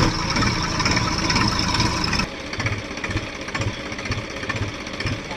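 Diesel tractor engine running loudly at first. About two seconds in the sound drops suddenly to a quieter engine idling with a steady low beat, two to three thuds a second.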